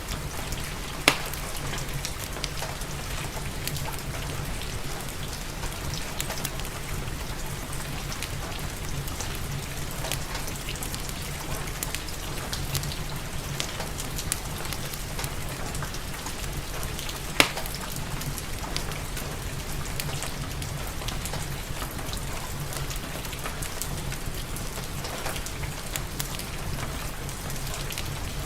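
Steady rain mixed with a fireplace, with scattered faint crackles throughout and two sharp pops, one about a second in and another a little past the middle.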